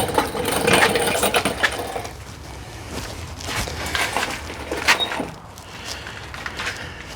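Irregular clinks, knocks and rustling as a heavy motor assembly hanging from an engine hoist is shifted and lowered into place, with a sharp knock about five seconds in.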